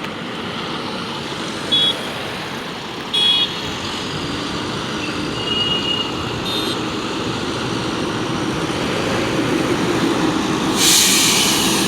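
Volvo coach engine running as the bus pulls in, growing steadily louder, amid road traffic. There are a few short high toots in the first half and a loud burst of hissing near the end.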